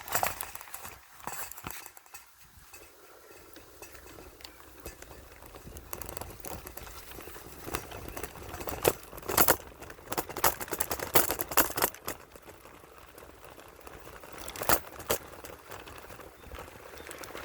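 River water flowing and splashing: a steady rush with irregular gurgles and sharp splashes, louder clusters of them in the middle and once near the end.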